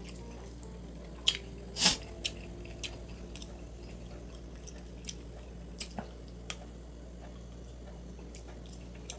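Close-up eating sounds: scattered wet mouth clicks and smacks of chewing, the loudest a pair about one and two seconds in, over a steady low hum.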